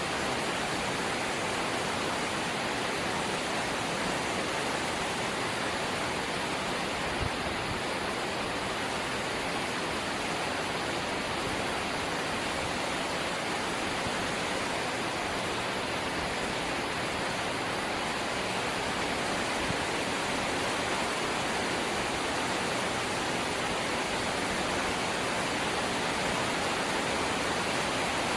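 Light rain falling steadily, an even hiss of drops with no pauses, and one soft tap about seven seconds in.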